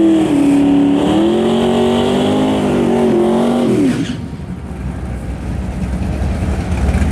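Race car engine at full throttle, its pitch climbing, dipping once about a second in as at a gear change, then climbing again. About four seconds in the pitch drops sharply and the engine falls away, leaving a lower, rougher rumble.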